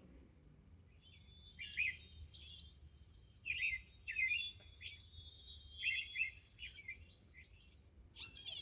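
Bird chirping: three clusters of quick, high chirps about two seconds apart, over a faint steady high tone.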